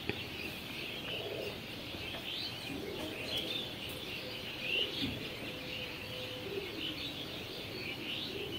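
Birds chirping: many short, high calls overlapping one another, fairly quiet.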